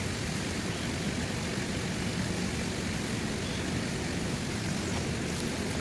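Steady heavy rain: an even, unbroken hiss with a low rumble, with a few faint sharp ticks near the end.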